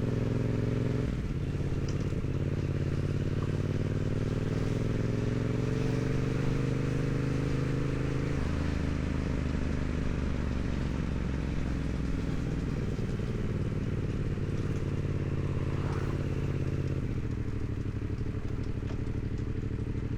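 2016 Yamaha MT-07's 689 cc parallel-twin engine through its stock exhaust, ridden on the road. A shift about a second in, revs climbing steadily under acceleration until about eight seconds in, then easing off, and running steadier again in the last few seconds, with wind noise throughout.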